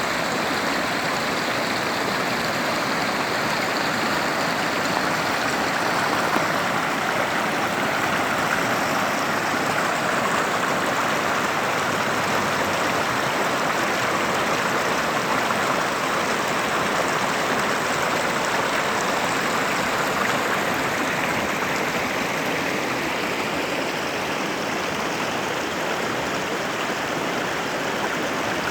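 Mountain creek rushing steadily where it flows into a larger river: an even, unbroken wash of moving water.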